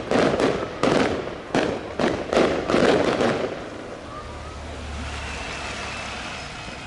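Display fireworks going off: a rapid string of about eight sharp bangs over the first three seconds, then dying down to a low rumble.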